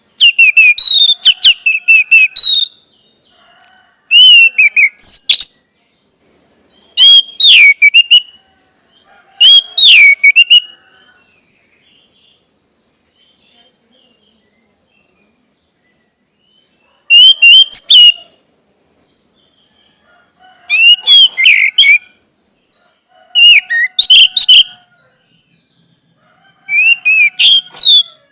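Orange-headed thrush singing loud phrases of rapid, sliding whistled notes, about eight separate bursts with pauses between them, used as a lure song to set caged thrushes singing. A steady high hiss lies behind most of it.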